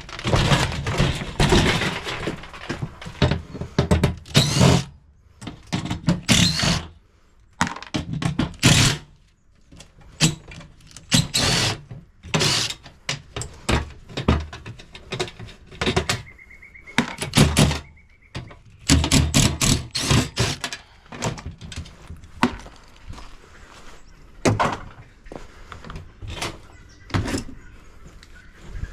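A dishwasher being pulled apart by hand: irregular clanks, thunks and rattles of sheet-metal panels and parts being worked loose and handled, with a brief faint whine in the middle.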